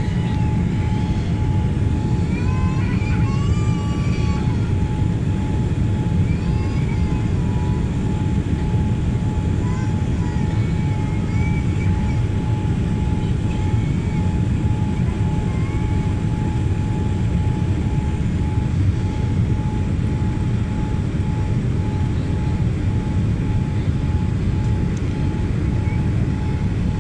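Steady low roar of a jet airliner's engines and airflow, with a steady high hum over it; faint voices in the background during the first several seconds.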